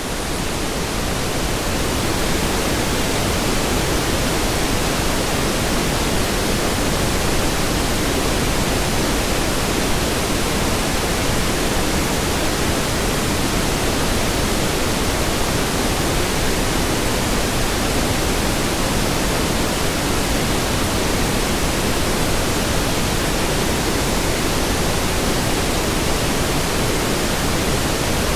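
Pink noise: a steady, even hiss, still fading in over the first couple of seconds and then holding at a constant level.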